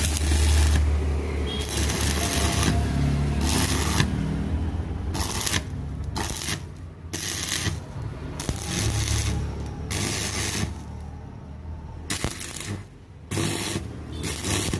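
Electric arc welding on a socket joint: repeated crackling bursts of arc noise at irregular intervals, each from under a second to about a second long, over a steady low hum.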